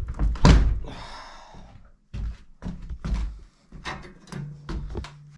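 A loud bang about half a second in, then a short hiss and a run of about six dull thumps.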